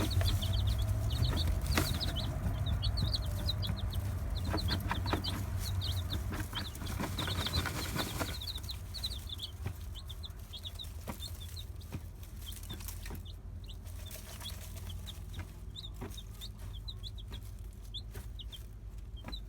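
Young chicks peeping in quick, high, repeated cheeps, busiest in the first half and thinning out later, with scattered scratching and rustling from a hen dust bathing in loose dirt.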